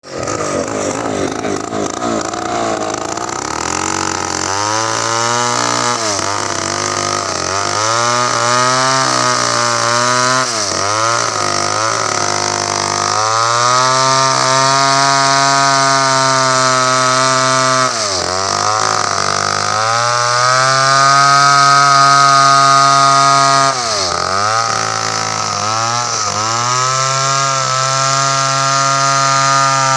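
Two-stroke chainsaw running at high revs while cutting coconut wood, its pitch dipping sharply and climbing back every few seconds as the engine bogs and recovers.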